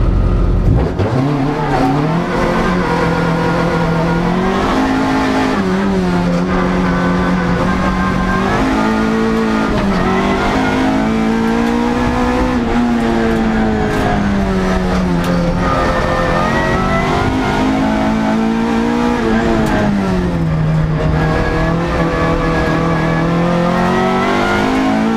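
Vauxhall Astra hill-climb car's engine heard from inside the cabin, running hard under full throttle. Its pitch climbs and drops again and again as it revs through the gears and backs off.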